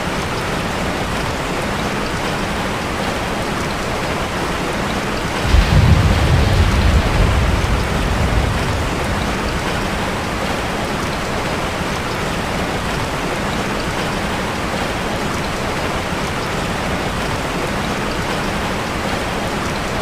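Steady rain. About five and a half seconds in, a deep rumble of thunder starts suddenly and dies away over about three seconds.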